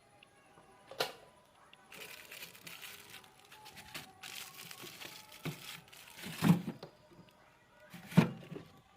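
Thick frost and ice being chipped and scraped from inside a refrigerator's freezer. A sharp crack comes about a second in, then a stretch of crackling and scraping, then two louder knocks near the end.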